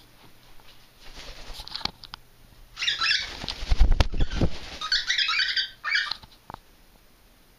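Pet cockatiels flying, their wings flapping in fluttering bursts that are loudest about three to six seconds in, with a low rush of air as they pass close.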